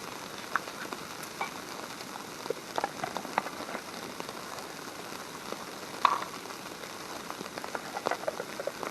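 Bologna sizzling in a small pan over a camp stove: a steady hiss with scattered pops and crackles.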